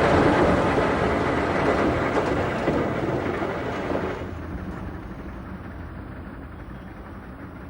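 A train running with a steady rumbling noise that cuts off abruptly about four seconds in, leaving quieter, duller background noise.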